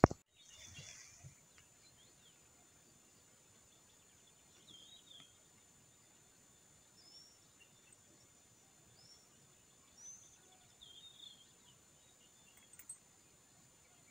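Faint outdoor ambience with small birds chirping now and then: short, high calls every second or two over a soft steady hiss. A single click right at the start.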